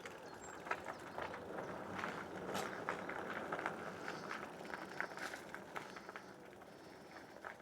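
Irregular small clicks and rustles over a low background hiss: footsteps and handling noise as the e-bike and handheld camera are moved.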